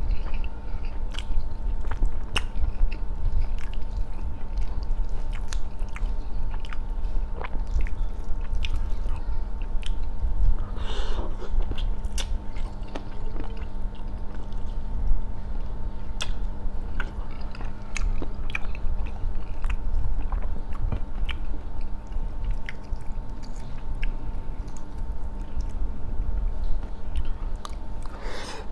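Close-miked chewing and eating mouth sounds: many small wet clicks and smacks as grilled chicken is chewed and eaten with the fingers. A steady faint hum lies underneath.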